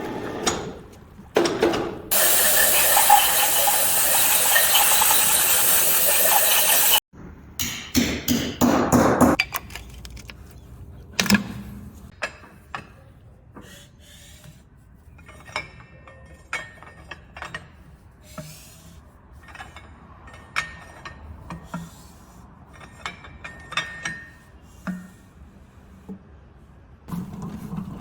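Hand and power tools at work on a diesel engine assembly line. A loud steady hiss runs for about five seconds and cuts off suddenly, then come scattered clicks, ratcheting and metal knocks.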